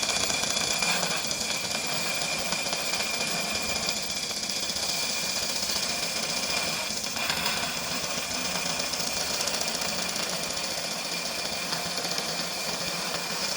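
Homemade belt grinder running steadily: a continuous whirring hiss from the motor and sanding belt, with a steady high whine.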